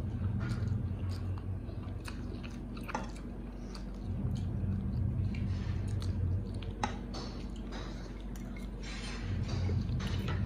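Two people chewing and slurping spicy instant noodles close to the microphone, with scattered short mouth clicks.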